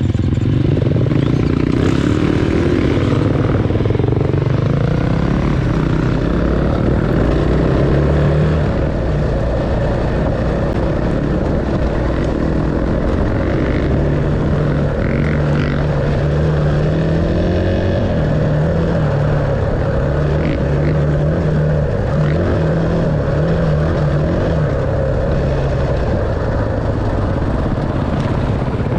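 Enduro dirt bike engine running, its pitch rising and falling with the throttle.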